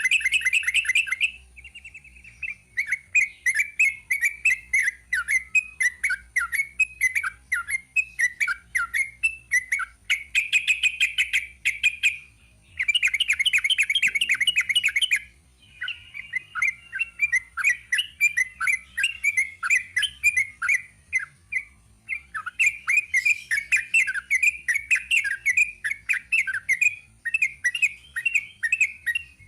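Sooty-headed bulbul (trucuk) singing a long, rapid chattering song of quick repeated notes, broken by several stretches of denser, faster trilling.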